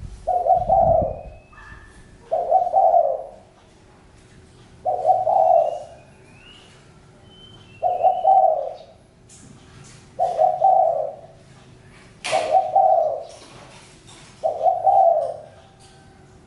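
Spotted dove cooing: seven short, multi-note cooing phrases, one about every two and a half seconds. Faint chirps of small birds are heard between them, along with a dull thump near the start and a single sharp click about twelve seconds in.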